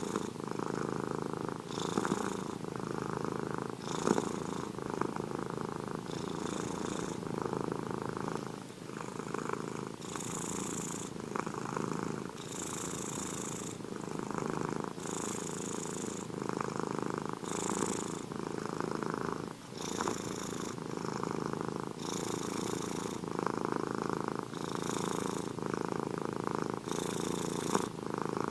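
Domestic cat purring steadily, the purr swelling and easing with each breath about every two seconds.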